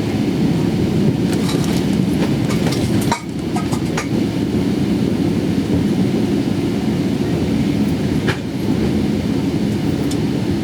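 Cabin noise inside a Boeing 777-300ER rolling on the ground: a steady, loud low rumble with a few light rattles and ticks in the first four seconds and once more near the end.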